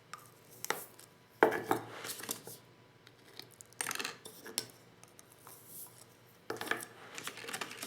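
Clinks and rattles of a Lee Loader shotshell reloading kit's tools and shells being handled, in four short bouts with pauses between.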